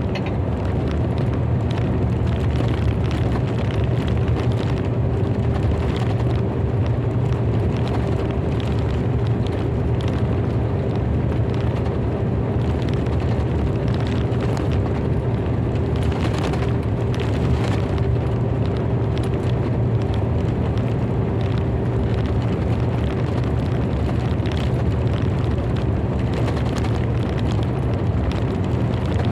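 Continuous low rumble of thunder, steady in level, with a faint steady hum that fades out near the end.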